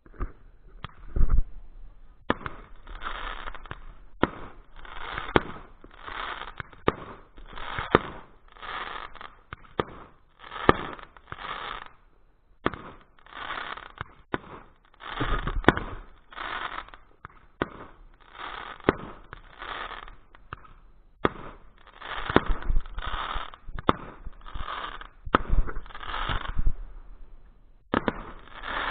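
Fireworks going off in a long run of crackling bursts, about one or two a second, with sharp pops among them.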